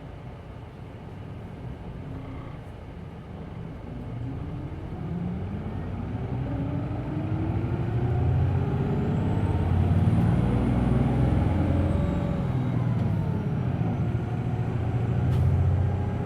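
Hino Blue Ribbon City Hybrid bus heard from inside the cabin, its diesel engine revving up as the bus accelerates. The engine grows steadily louder and higher in pitch for about ten seconds, then runs hard at high revs, with a faint high whine rising and falling near the peak.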